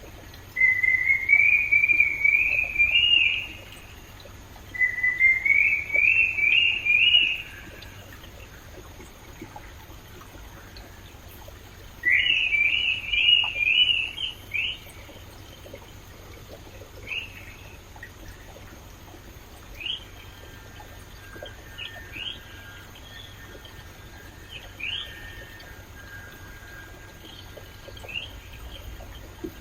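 A bird singing three phrases of quick rising notes, each two to three seconds long, then scattered single short calls, over the steady rush of a flowing stream.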